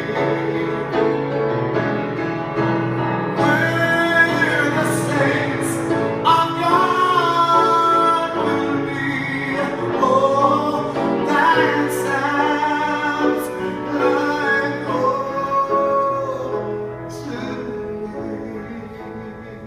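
Gospel song: a solo voice singing long, wavering held notes over instrumental accompaniment, the music growing quieter near the end.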